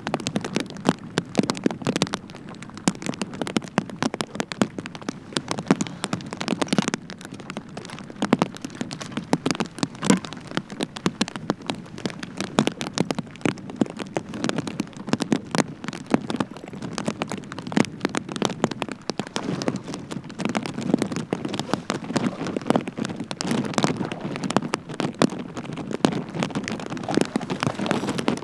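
Rain falling steadily, with a dense, irregular patter of close drop hits over a low rumble.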